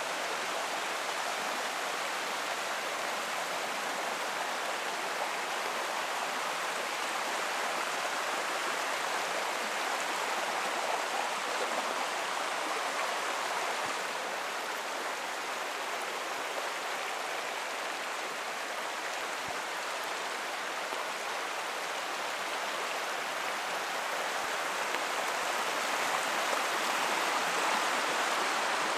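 Forest creek water running steadily, a continuous rushing that swells slightly near the end.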